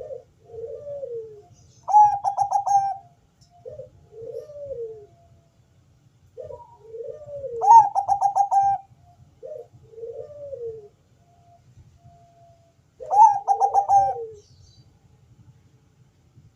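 Zebra dove (perkutut bangkok) singing its deep cooing song: three repeated phrases about six seconds apart, each starting with soft low arched coos and ending in a loud, rapid rolling run of notes.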